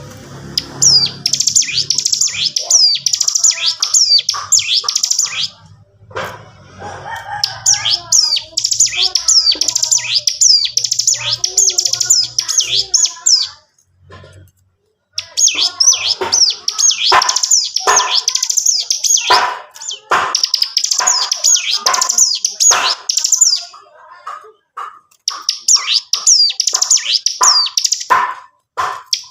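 Ciblek gunung, a prinia, singing a fast, high chattering song in long unbroken bouts of rapid chirps, four bouts with short pauses between.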